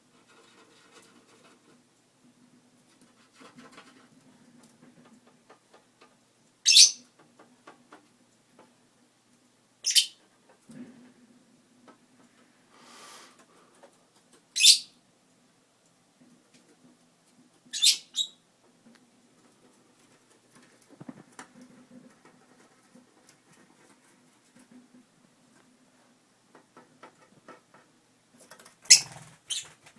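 Pet lovebirds giving short, sharp, high-pitched shrieks, about five calls a few seconds apart, with faint tapping in between.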